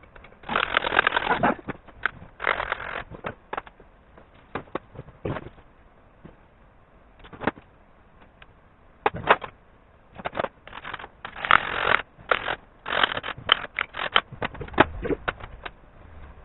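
Irregular clicks, knocks and short scraping sounds of hand work on metal parts, with a few louder scraping bursts between quieter pauses.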